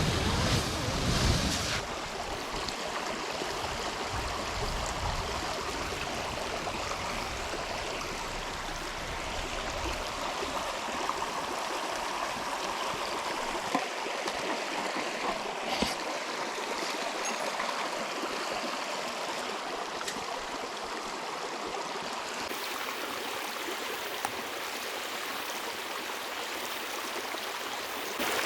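River water flowing, a steady rushing noise, with a couple of short clicks in the middle.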